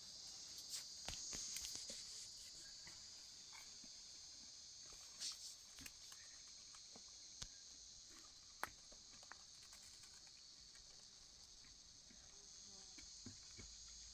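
Faint steady chirring of crickets or similar insects, high-pitched, with a few scattered light clicks and taps.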